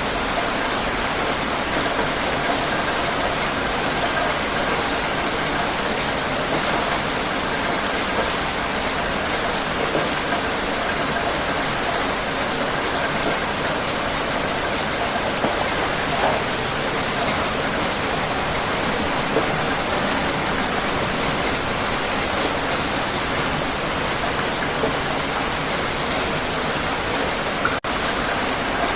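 Heavy rain falling steadily, an even hiss with scattered individual drop ticks, with a brief dropout near the end.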